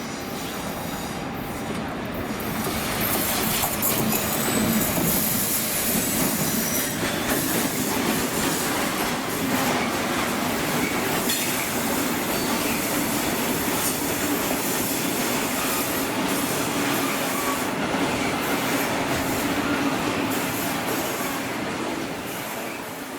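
Train passing along the track, its wheels running over the rails. It grows louder about two seconds in, holds steady, and fades near the end.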